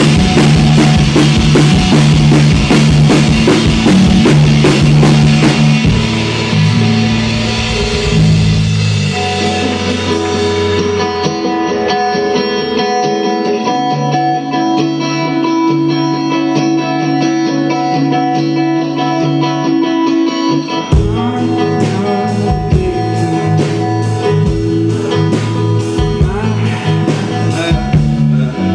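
Live rock band playing guitar and drum kit. About ten seconds in, the drums drop out and held guitar notes ring on their own. The full band comes back in a little past twenty seconds.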